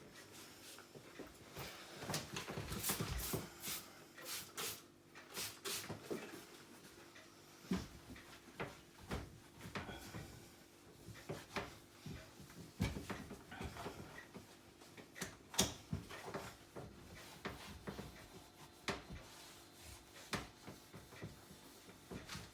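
Irregular knocks, clicks and scrapes of a dishwasher's parts being handled and moved, denser for a few seconds near the start, over a steady low hum.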